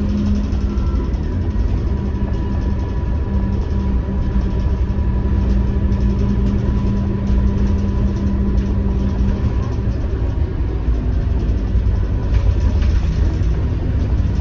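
Scania K230UB bus's diesel engine running steadily with a low drone. A steady hum over it fades out about ten seconds in, and a faint thin whine runs above.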